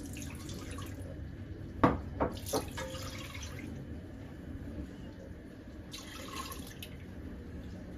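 Water from a kitchen tap running in short spurts, with three sharp clinks close together about two seconds in.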